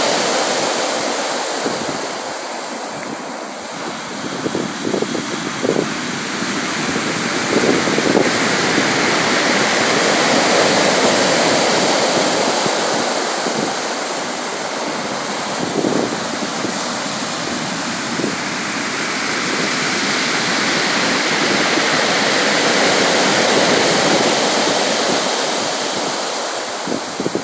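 Sea surf: a steady rushing of waves that swells and eases over several seconds, loudest about ten seconds in, with a few brief stronger splashes.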